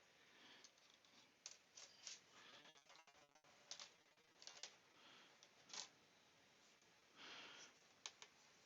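Faint, scattered clicks and light scraping as a small threaded metal part is screwed into another by hand to cut its thread.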